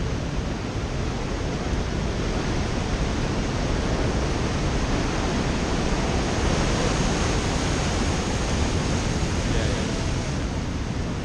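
Storm surf breaking on the beach: a steady wash of noise that grows a little louder about halfway through.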